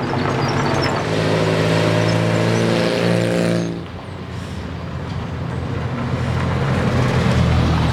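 A classic car's engine running with a steady note that falls away sharply about four seconds in, then builds up again.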